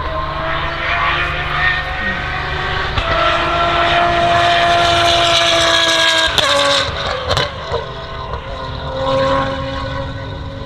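Lotus Emira GT4 race car's 3.5-litre supercharged V6 running hard on track. Its note holds high for about six seconds, breaks off sharply with a pop, then climbs again from a lower pitch.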